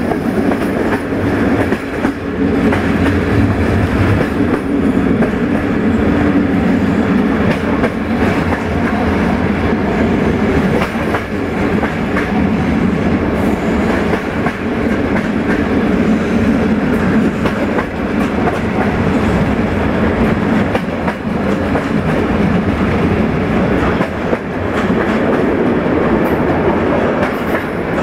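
Passenger train rolling along the line, heard from on board: a steady rumble of wheels on rail with clickety-clack over the rail joints.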